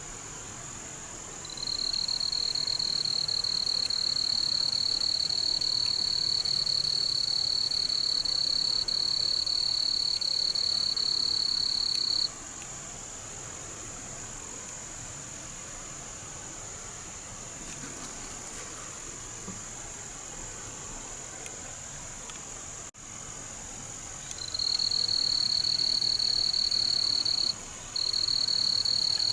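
Frogs and insects calling: a loud, steady, high-pitched trill that holds for about ten seconds, stops, then starts again near the end with a brief break, over a constant higher-pitched whine.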